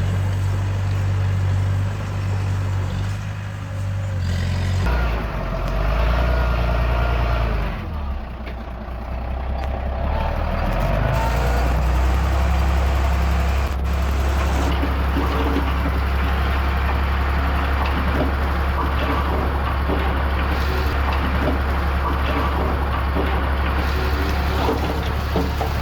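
Diesel engines of a small bulldozer and a dump truck running steadily under work, the low engine note shifting pitch a few times in the first ten seconds.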